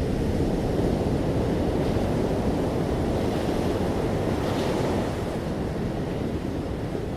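Ocean waves breaking gently on the shore, a steady wash of surf that swells slightly about two-thirds of the way through and then eases.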